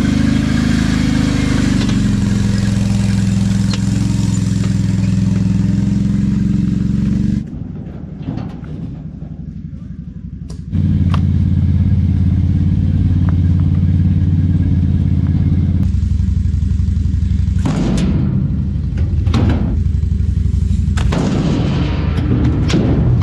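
Engine running steadily at a constant speed. It drops away for about three seconds, then resumes, with a few sharp knocks or clatters over it in the second half.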